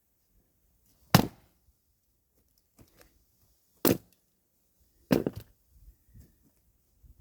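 Axe splitting firewood by hand: three sharp strikes into the logs, the first about a second in and the last two a little over a second apart.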